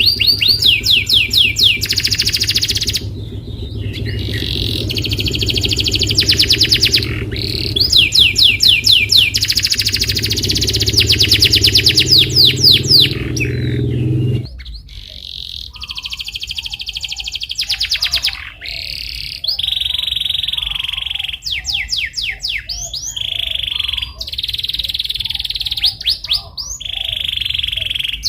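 Canary singing, a long run of fast rolling trills alternating with steady held whistled notes. A low hum underneath cuts off about halfway through.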